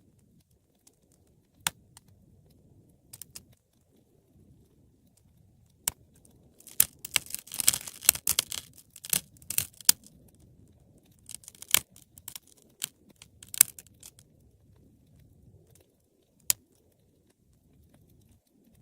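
Wood fire crackling in a fireplace: scattered sharp pops, with a dense run of crackling a little before the middle and another just after it, over a faint low rumble of the flames.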